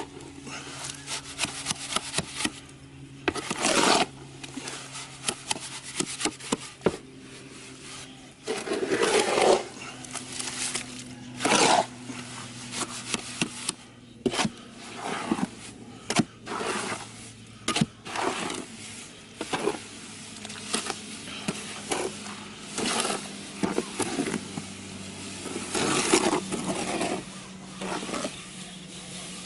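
Cement mortar being mixed by hand: a tool scraping and knocking through it in irregular strokes, with a faint steady hum underneath.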